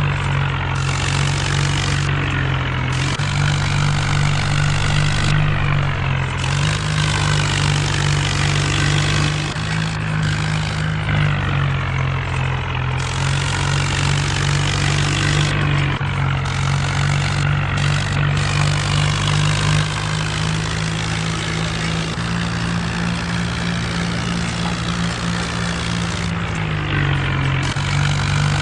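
Mahindra Arjun tractor's diesel engine running steadily, with its pitch dipping slightly and recovering several times, along with the rattle and churn of a tractor-driven rotavator.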